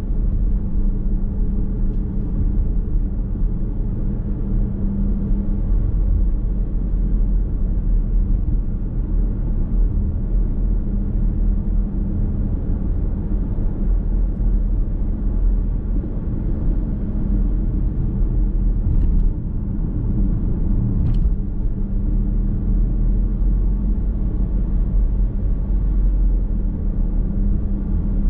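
Car driving sound heard inside the cabin: a steady low rumble of engine and road noise while cruising. Two short knocks come about two-thirds of the way in.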